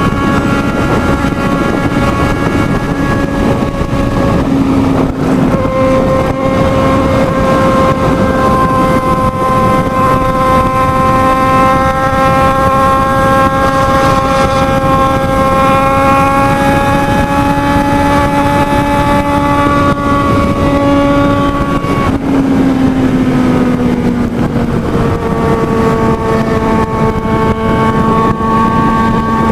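Motorcycle engine held at high revs at speed, with wind buffeting the microphone. The engine note breaks briefly about four seconds in, then creeps slowly up in pitch, drops about two-thirds of the way through as the revs fall, and holds steady again.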